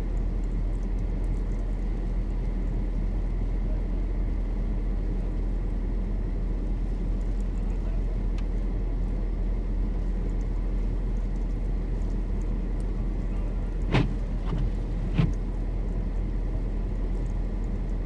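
Steady low hum of an idling car engine heard from inside the car's cabin, with two sharp knocks about a second apart near the end.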